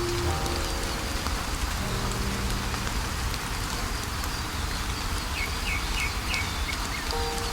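Steady rain falling, with a few soft held low notes underneath. A bird chirps four times in quick succession a little after five seconds in.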